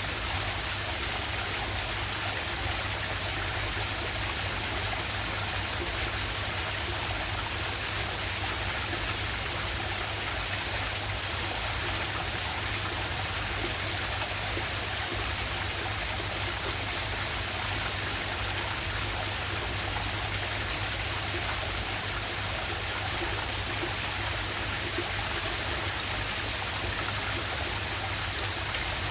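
A waterfall and its stream rushing steadily, an even unbroken wash of running water.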